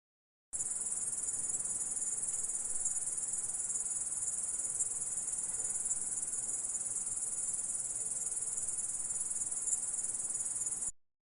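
Grasshopper stridulating: a steady, high-pitched continuous buzz that starts abruptly about half a second in and cuts off suddenly near the end.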